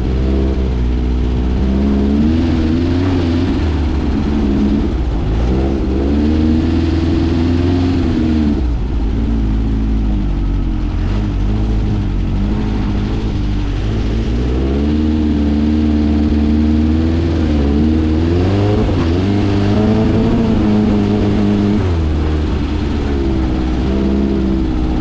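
1600cc air-cooled Volkswagen flat-four engine of a dune buggy, loud and continuous, revving up and dropping back again and again while driving on snow.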